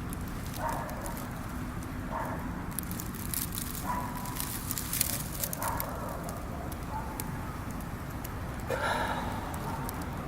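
Wood campfire crackling with scattered sharp pops. About every one and a half to two seconds an animal gives a short call, six times in all, with the one near the end the loudest.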